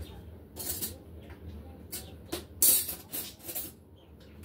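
A few short rattles and scrapes of kitchen containers and utensils being handled, with one louder rattle in the middle.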